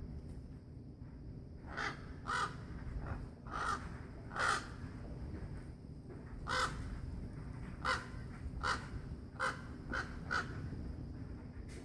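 A crow cawing over and over, about a dozen short caws at uneven intervals, over a steady low rumble.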